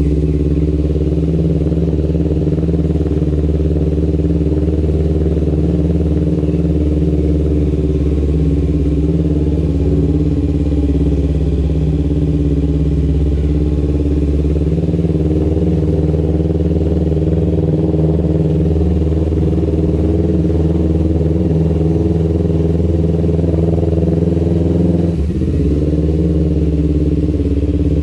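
Kawasaki Ninja 250 FI parallel-twin engine running through an R9 H2 aftermarket exhaust, holding a steady engine speed. Near the end there is a brief dip in revs.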